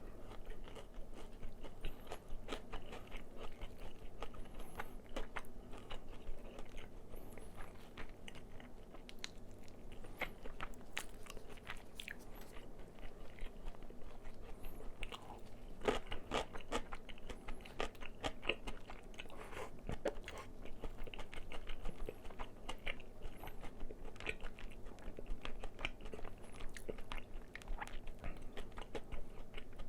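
Close-up eating of crispy fried chicken: repeated bites into the crunchy battered skin and steady crackling chewing, with many short crunches throughout.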